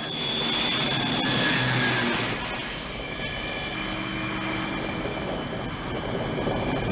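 Engine running steadily with a high whine, like an aircraft engine. It swells about a second and a half in, then settles.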